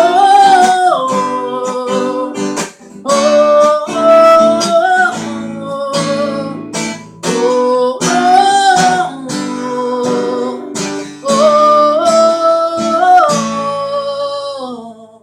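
Acoustic guitar strummed in a steady rhythm under a wordless sung melody of four long, sliding phrases. Guitar and voice cut off together right at the end as the song finishes.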